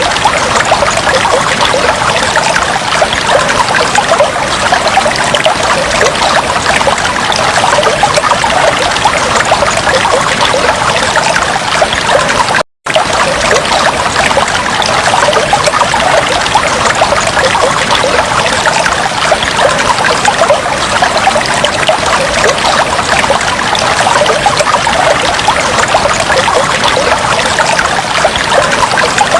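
Fish tank water trickling and bubbling steadily, a dense patter of small splashes. It cuts out completely for a split second a little before halfway.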